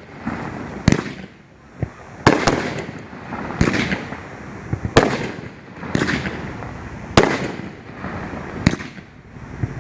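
500-gram firework cake (Shogun Show of Force) firing its shells in sequence. About seven sharp, hard-hitting bangs come roughly every second to second and a half, each trailing off briefly.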